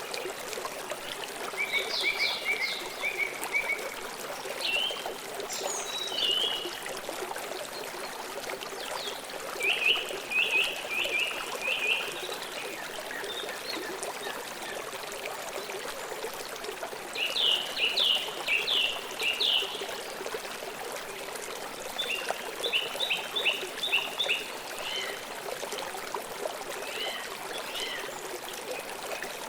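River water flowing steadily, with a songbird singing short phrases of rapid high chirps every few seconds.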